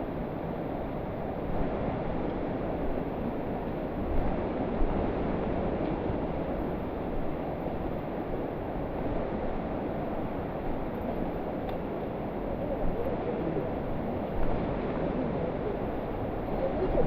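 Steady rush of a waterfall's falling water in a mountain gorge, an even noise with no pauses.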